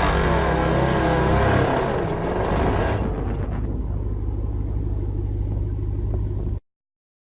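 Off-road vehicle engine running, its pitch rising and falling over the first couple of seconds, then settling into a steady low rumble that cuts off suddenly near the end.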